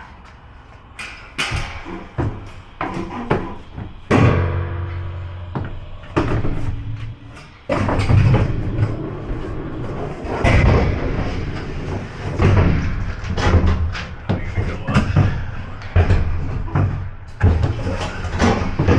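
Repeated knocks, bangs and rattles of heavy dog kennel panels being unpacked and loaded into a cargo van, with a steady low hum underneath from about four seconds in.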